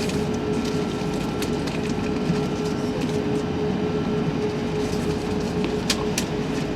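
Airbus A380 cabin noise while the aircraft rolls on the ground: a steady rumble and hiss with a steady hum, broken by scattered sharp clicks and rattles.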